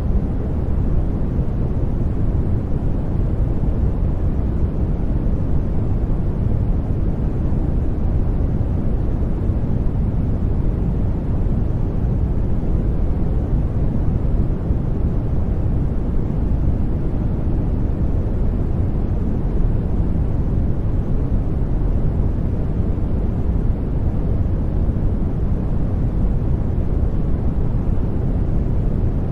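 Steady, deep, rushing noise for sleep, heavy in the bass and soft in the treble, unchanging throughout.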